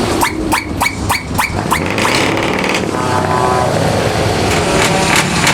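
Truck engines running with a steady low rumble. A quick run of sharp cracks, about four a second, comes in the first two seconds, and a steady pitched tone sets in about three seconds in. More cracks follow near the end.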